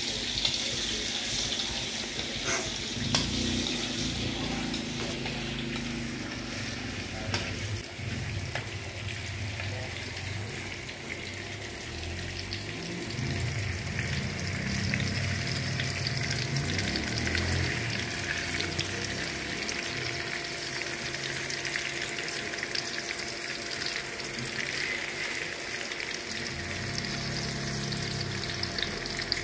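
Tofu slices frying in hot oil in a metal wok: a steady sizzle throughout, with a few light clicks in the first several seconds.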